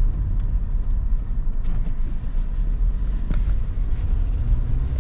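Steady low rumble of a car being driven, heard inside the cabin, with a few faint clicks.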